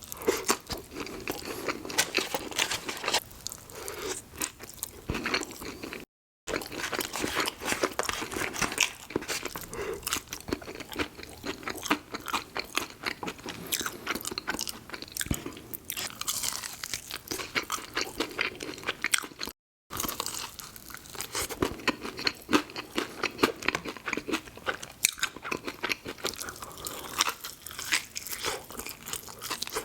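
Close-miked eating: a person biting and chewing crispy fast food, with many quick crunches and wet chewing. The sound cuts out completely for a moment twice, near 6 s and near 20 s.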